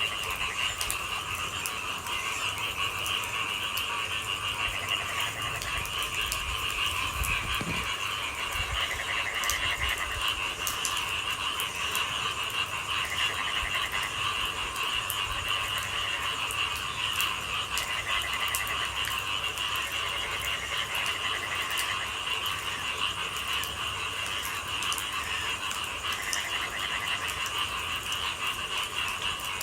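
A night chorus of frogs calling steadily in many overlapping voices, with single calls standing out every few seconds, over light rain pattering and dripping.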